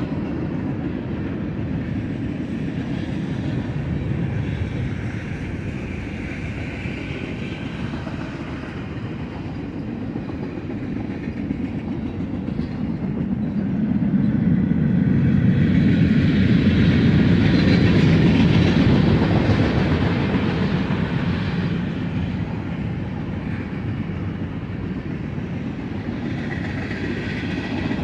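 Union Pacific mixed freight train rolling past, its wheels clacking over the rail joints in a steady rumble that swells louder for several seconds about halfway through.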